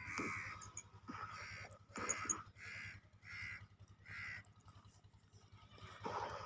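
Faint bird calls: a series of about six short calls in a row, spaced well under a second apart, stopping about four seconds in.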